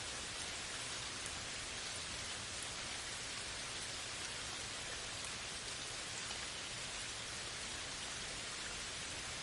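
Steady rain falling, an even hiss of many drops with fine pattering of individual drops on a surface.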